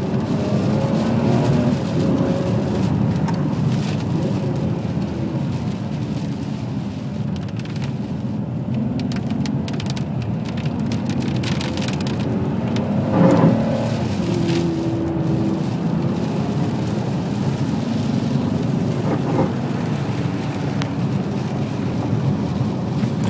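Ferrari 599 GTB Fiorano's 6.0-litre V12 running as the car is driven, its note rising and falling with the throttle, with a brief louder surge about thirteen seconds in. Steady hiss of the tyres on the wet road underneath.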